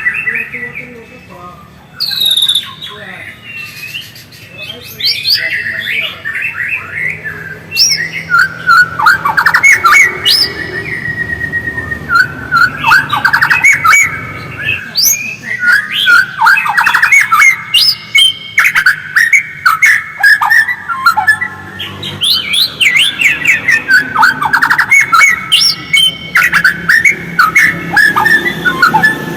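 White-rumped shama (murai batu) singing a busy, continuous song of rapid chattering and twittering notes, with only short pauses.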